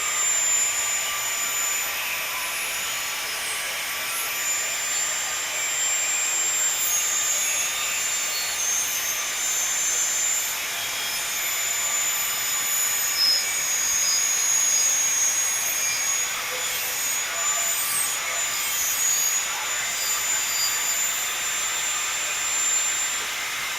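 Angle grinder with a cutoff disc cutting stainless steel exhaust tubing: a steady high-pitched whine over a hiss, the pitch wavering slightly.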